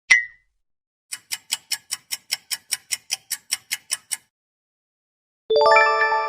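Meme sound effects: a short sharp pop, then a fast run of about sixteen even ticks, about five a second, like a ticking timer. Near the end a bright chime chord of several tones rings out and slowly fades.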